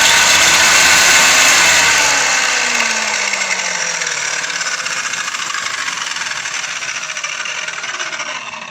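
A 230 mm, 2 kW angle grinder mounted as a chop saw, switched on for a trial run with its cut-off disc spinning free. It runs at full speed for about two seconds, then its pitch and loudness fall steadily as it winds down, dying away at the very end.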